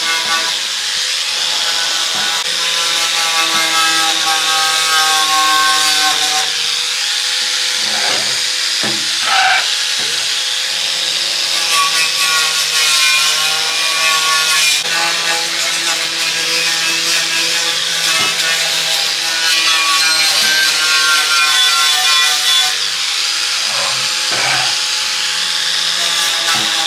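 An electric power tool running with a steady whine while working against a part. It changes pitch and breaks briefly several times, as it is loaded and eased off.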